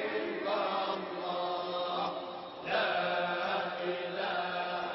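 Sufi dhikr chanting from a hadra, with voices over a steady low drone.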